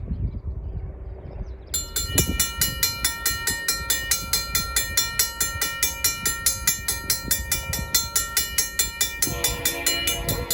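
Safetran mechanical crossing bell starts ringing a couple of seconds in, striking fast and evenly with a bright metallic ring; it sounds healthy. Near the end the approaching locomotive's multi-note horn chord joins in.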